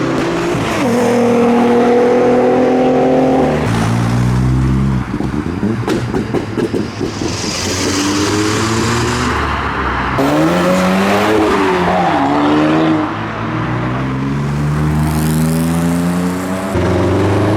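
Modified cars accelerating hard away one after another. The engine notes climb and then drop back at gear changes several times. Uneven rapid popping comes about five seconds in, and a high hiss follows around halfway.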